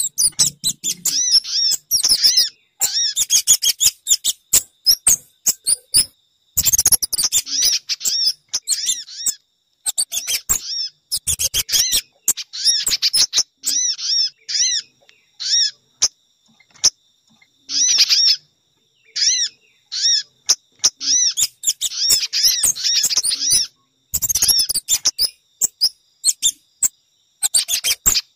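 Bird-lure recording of small songbird calls, meant to draw in sogon, spiderhunters and kemade: bursts of rapid, repeated high chirps lasting a second or two, with short gaps between them.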